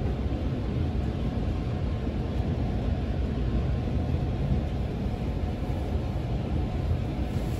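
Steady low rumble of a local electric train running, heard from inside the passenger car.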